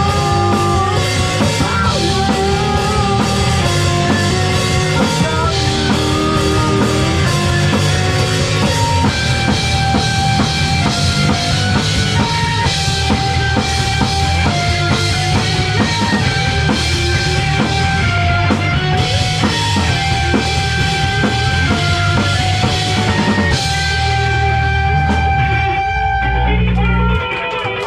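Live rock band playing in a basement: drum kit, guitar and bass. Near the end the cymbals and upper range drop away, leaving a held low note.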